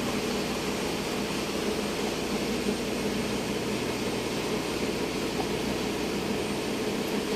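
Steady, unbroken roar of running machinery in a ship's engine room, with a constant hum underneath.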